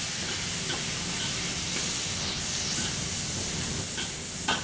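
Asparagus sizzling in a hot oiled wok as it is stir-fried, giving a steady hiss with a few light ticks and one sharper click near the end.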